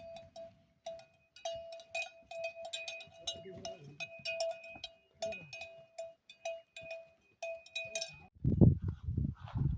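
An animal's neck bell clanking in irregular strokes on one ringing note, as on a walking livestock or pack animal. Near the end come a few loud, low thumps.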